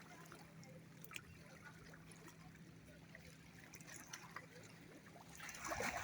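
Faint lake water lapping and trickling, with small scattered splashy ticks and a louder rush of water about five and a half seconds in. A faint steady low hum runs underneath.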